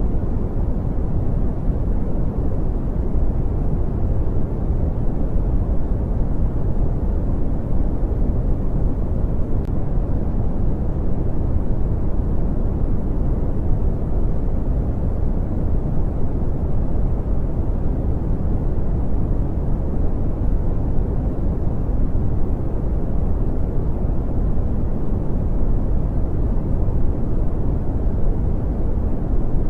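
Steady brown noise: an even, deep rumbling hiss, strongest in the bass and fading toward the treble, with no change or events.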